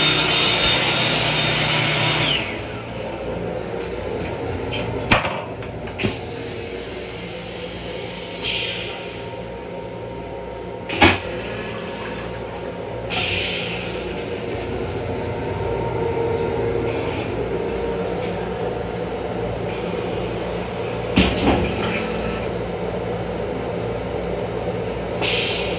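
Steady hum and running noise of a Long Island Rail Road M7 electric railcar heard from inside its small restroom, broken by a few sharp clicks and knocks. A louder whirring sound cuts off about two seconds in.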